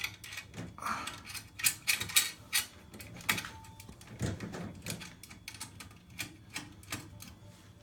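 Irregular clicks and taps of a boiler control part being handled and fitted back into place, coming thick and fast at first and thinning out toward the end.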